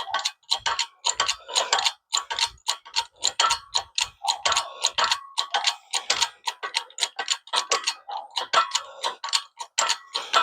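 Hand-pumped hydraulic shop press being worked: a steady run of sharp metallic clicks in quick clusters, several a second, as the pump handle is stroked over and over to lower the ram toward a U-joint cap.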